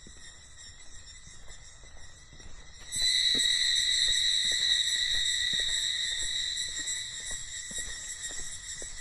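Cicadas buzzing in one steady, high, even drone that grows much louder about three seconds in, with faint light ticks and taps underneath.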